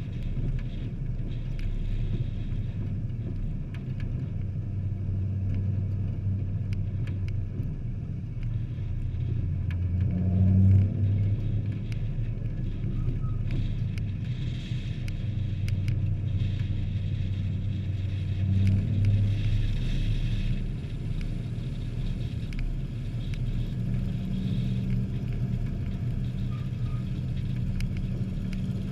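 Several hobby-class race trucks' engines running on an oval track, swelling as the pack passes, loudest about ten seconds in and again near twenty seconds.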